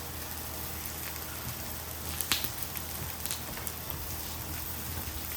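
Pork sizzling on a hot cast-iron grill plate: a steady hiss broken by a few sharp clicks, the loudest about two seconds in.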